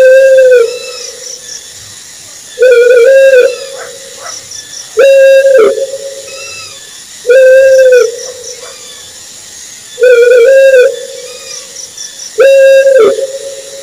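Owl hooting: a loud, hollow, even-pitched hoot under a second long, repeated six times at steady intervals of about two and a half seconds, some hoots broken in two. Faint high chirping runs in the background throughout.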